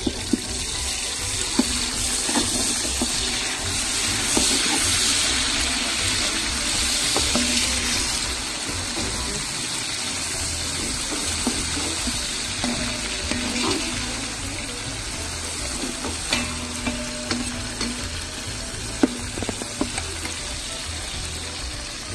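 Onions with ginger and garlic sizzling in hot oil in an aluminium pot over a wood fire, loudest in the first several seconds. A metal ladle stirs through the pot, clinking and scraping against its sides.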